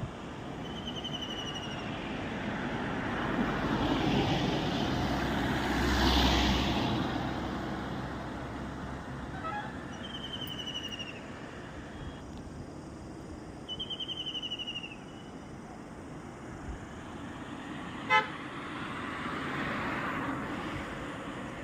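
Outdoor ambience: a steady rushing noise that swells twice in the first several seconds, with a short, high, descending call repeating every few seconds and a single sharp knock near the end.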